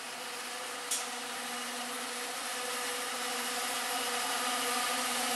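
Diesel-hauled Enterprise train drawing into the platform: a steady mechanical hum with a noisy rush, growing louder as it approaches. A single sharp click about a second in.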